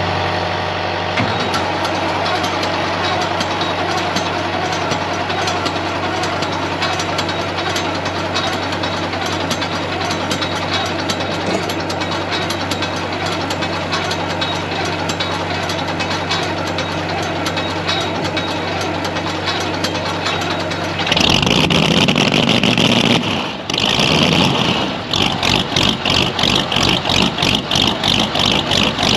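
Heavy vehicle engine running steadily. About twenty seconds in the sound changes to a louder high-pitched noise that pulses about twice a second.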